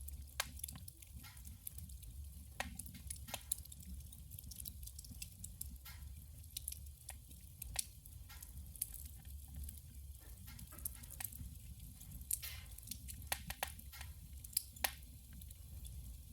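Wood fire burning in a wood stove: irregular sharp crackles and pops, a few every second, over a low steady rumble.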